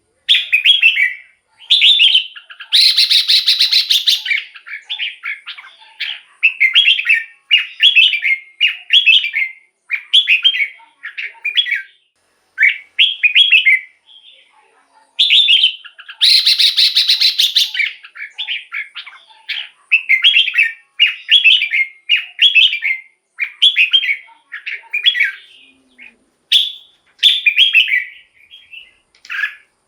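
Red-whiskered bulbul singing a string of short, loud whistled phrases, about one a second. The run is broken twice, near the start and about halfway through, by a longer, harsher chatter.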